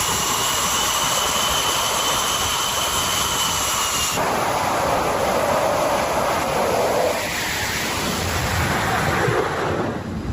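Loud, steady machinery noise with a high whine over it. The sound changes abruptly about four seconds in: the whine drops out and a broader rushing noise takes over.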